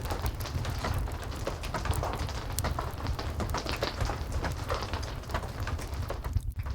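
Heavy rain falling steadily with a low rumble, mixed with the gentle crackling of a fireplace: many small sharp clicks and pops over the rain. The sound briefly dips out near the end.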